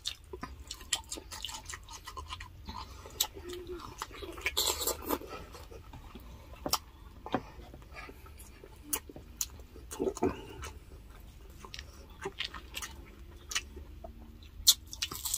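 Close-miked chewing, lip smacking and wet mouth clicks of people eating grilled chicken, fish and rice by hand, a scattering of sharp irregular clicks with a few brief louder noises.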